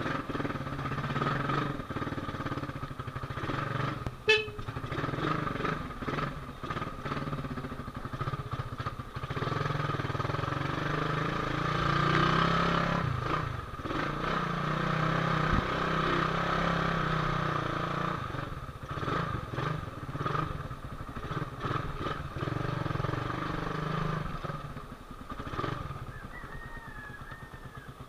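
Suzuki Raider 150's carburetted single-cylinder four-stroke engine running at low speed while riding, revs rising and easing off, with a brief sharp toot about four seconds in.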